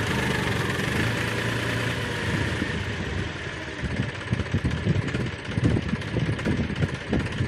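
New Holland 4710 tractor's diesel engine running steadily. From about halfway through, irregular low thumps and gusts sound over it.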